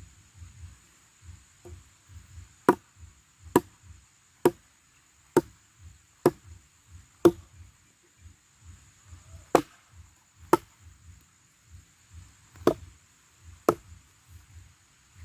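Wood being chopped with a blade: sharp, loud strokes about one a second, six in a row, then a short pause and four more, with softer knocks in between.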